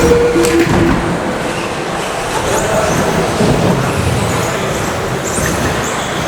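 A pack of RC stadium trucks with 13.5-turn brushless electric motors racing on an indoor carpet track. Their motors whine and their tyres run over the carpet in a steady mix, with a few sharp clacks about half a second in.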